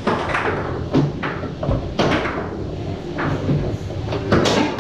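Tornado foosball table in play: an irregular series of sharp knocks and clacks from the ball being struck by the rod men and hitting the table walls, with the loudest cluster near the end.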